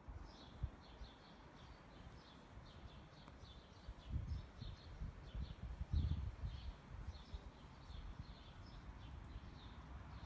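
Small birds chirping repeatedly in the background, several short calls a second, over a low outdoor rumble with a few louder low thumps about four and six seconds in.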